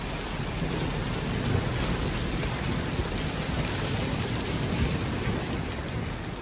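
Heavy rain falling steadily, a dense even hiss with scattered drop taps.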